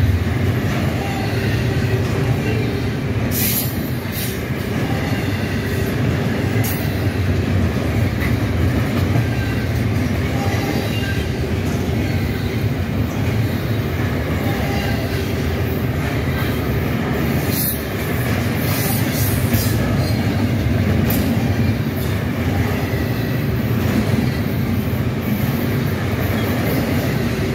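Double-stack intermodal freight train's loaded well cars rolling past close by: a steady, loud rumble of steel wheels on rail, with brief high-pitched noises from the wheels a few times.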